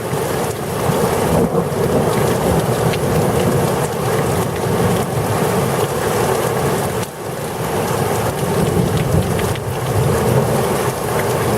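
Heavy thunderstorm downpour: a loud, steady rush of rain with a low rumble underneath, dipping briefly about seven seconds in.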